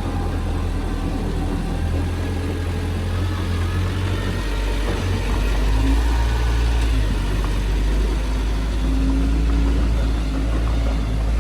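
Diesel engine of a Komatsu D20P bulldozer running steadily, growing a little louder about five seconds in.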